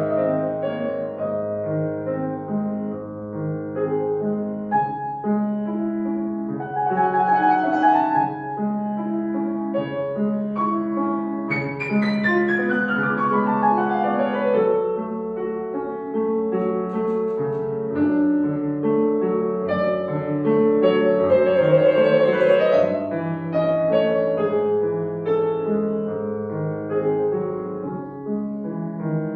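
Solo piano playing a classical piece, with a fast run of notes cascading downward about twelve seconds in.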